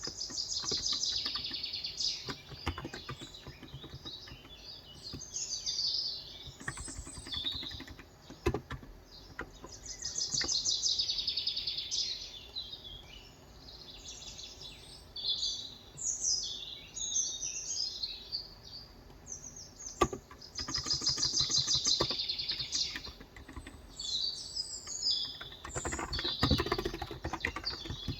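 Small birds chirping and singing in repeated bursts of quick, high trills, over scattered light keystrokes on a Cox Endeavor 35g electro-capacitive keyboard. There is a dull low knock near the end.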